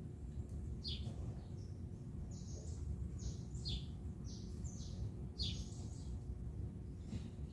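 Small birds chirping: a run of short, high chirps, about eight of them in the first five or six seconds, over a steady low hum.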